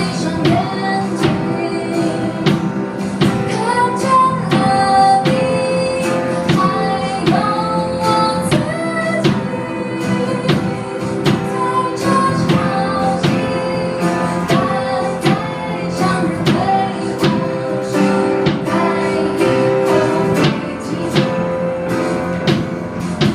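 Acoustic guitar picked in a steady rhythm, with a woman's voice singing a gliding melody over it.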